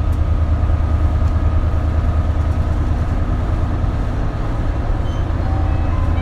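Isuzu KL-LV280L1 city bus heard from inside the cabin: a steady low engine and drivetrain drone with a faint steady whine above it.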